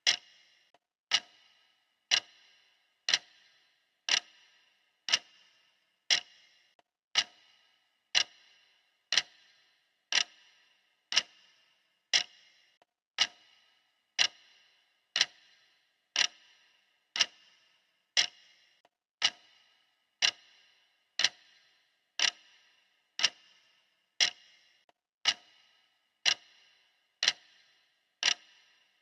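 Clock-style ticking, one sharp tick each second with a short ring after it, marking the seconds of a countdown timer.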